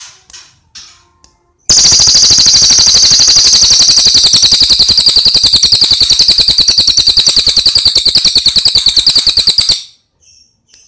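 A bird's loud, rapid rattling trill: high notes repeated very fast and evenly for about eight seconds, cutting off abruptly, after a few faint chirps.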